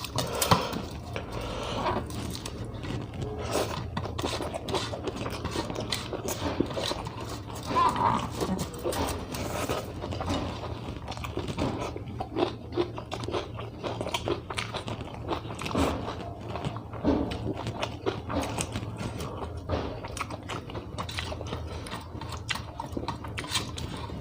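Close-miked chewing and mouth noises of a person eating a meal of rice, dal and vegetables by hand: irregular wet smacks, clicks and small crunches, over a steady low hum.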